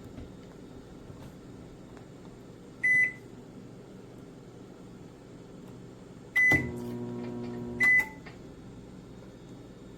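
Comfee EM720CPL-PMB countertop microwave's control panel beeps once. A few seconds later it beeps again and the oven starts with a click and a low, steady hum. It runs about a second and a half and stops with a third beep.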